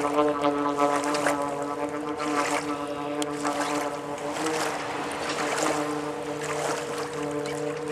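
Amphibious Subaru car-boat under way on the water, its engine running at a steady pitch that wavers briefly about four seconds in, over the rush and splash of water along the hull.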